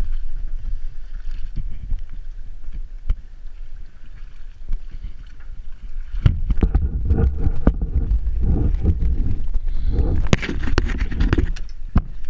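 Sea water sloshing and splashing around a kayak, with wind rumbling on the microphone and a few sharp knocks. The splashing comes in two louder spells, about six and ten seconds in.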